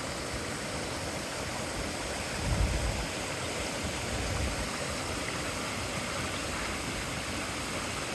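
Creek water rushing steadily over a drop-off, with two brief low bumps on the microphone about two and a half and four seconds in.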